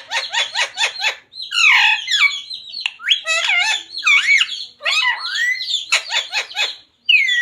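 Pet green parrot chattering and squawking: a quick run of clicks in the first second, then a string of whistled, gliding calls and harsh squawks.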